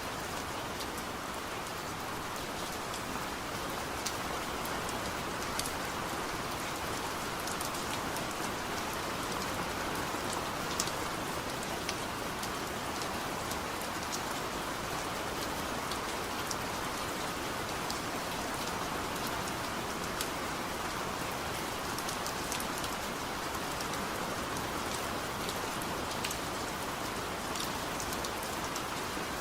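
Heavy rain falling steadily, with scattered sharp ticks of individual drops striking a surface.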